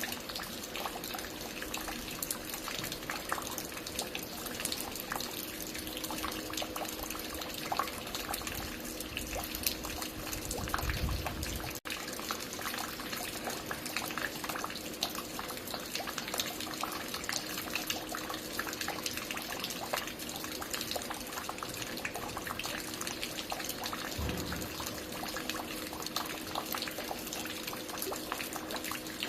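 Water dripping and falling steadily at a construction site, many drops splashing into a continuous patter, with a faint steady hum underneath. Twice, about a third of the way in and again past the three-quarter mark, a short low rumble sounds beneath the water.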